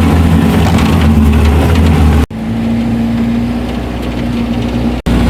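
Off-road 4x4's engine running steadily, broken by two abrupt cuts about two seconds in and near the end. After the first cut the sound changes, with less low rumble and a steady hum.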